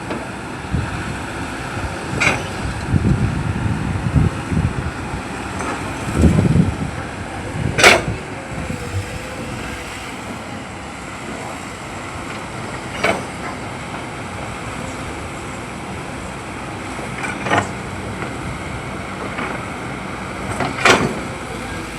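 Steady vehicle or machinery rumble with low swells, broken by about five sharp knocks a few seconds apart, the loudest near the middle.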